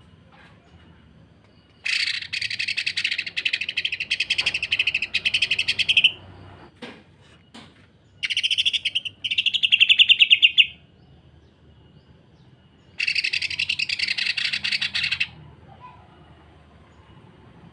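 Cucak ijo (green leafbird) giving harsh, rapid-fire rattling runs of notes, the dense "sewing machine" kasaran call. It comes in four bursts, the first about two seconds in and lasting about four seconds, then two shorter ones close together and a last one near the end.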